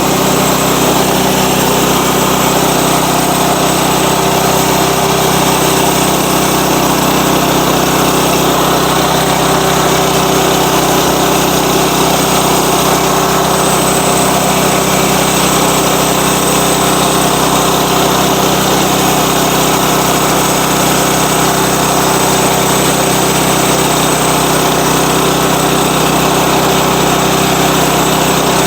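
Sawmill engine running steadily, at an even pitch and level.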